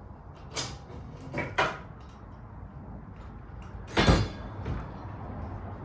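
Several knocks and clanks of bike parts and tools being handled, the loudest about four seconds in, over the steady low rumble of nearby highway traffic.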